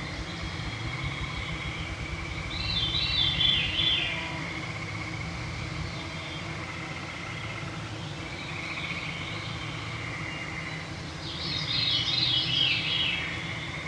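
A veery sings its falling, spiraling flute-like song twice, about three seconds in and again near the end. Behind it runs a steady background of trilling and the hum of mosquitoes.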